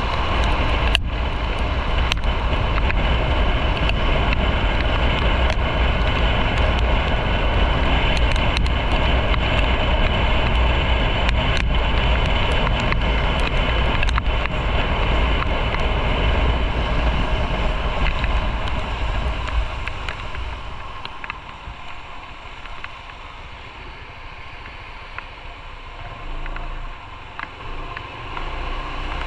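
Motorcycle on the move: wind rushing over the microphone over engine and road noise, with a few brief clicks. About twenty seconds in the rumble drops away sharply and stays lower.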